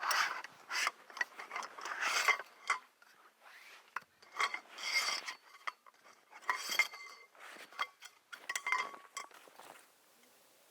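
Hard metal objects being handled, clinking and clattering together with short metallic rings. The sound comes in four bursts of rapid clicks and stops about a second before the end.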